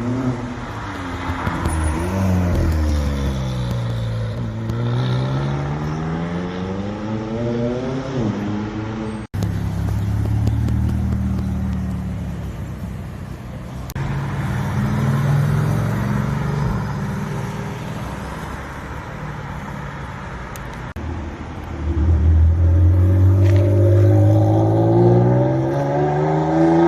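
Supercar engines revving through loud exhausts, in several short clips. In the first, the engine note falls and then climbs again. A sudden cut comes about nine seconds in, then a steadier engine sound, and near the end a loud rev climbing in pitch.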